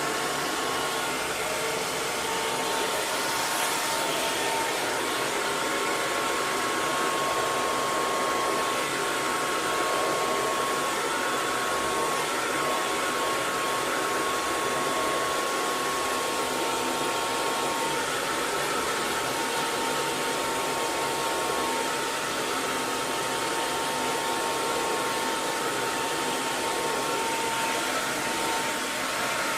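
Handheld hair dryer running steadily: an even, constant blowing rush with a faint steady whine from its motor and fan.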